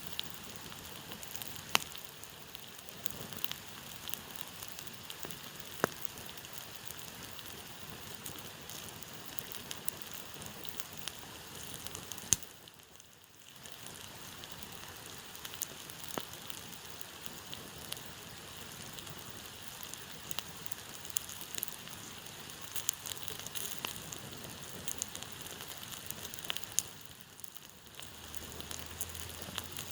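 Campfire burning, a steady hiss with scattered sharp crackling pops. The sound drops away briefly twice.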